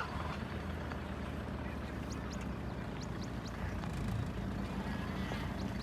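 A vehicle engine running steadily at idle, a low, even hum. A few short, high chirps come in two small clusters, one in the middle and one near the end.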